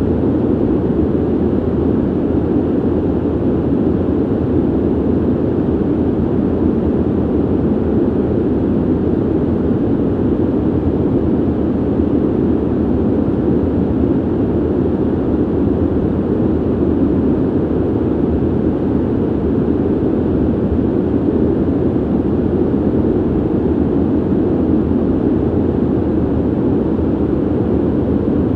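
Ventilation system air noise: a steady, low, dull rush of air with no tones, clicks or changes.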